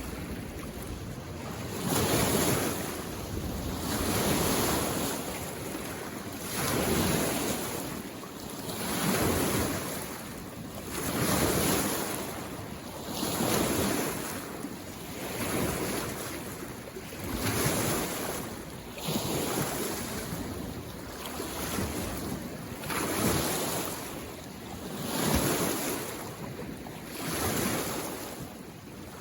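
Small waves lapping on a mountain lake shore, a wash of splashing water swelling and fading about every two seconds.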